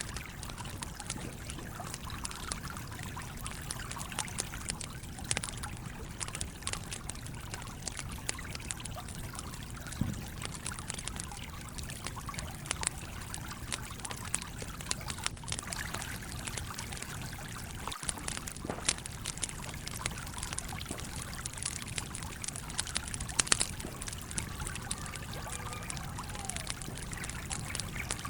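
Campfire crackling with frequent sharp pops and snaps over the steady flow of a small stream.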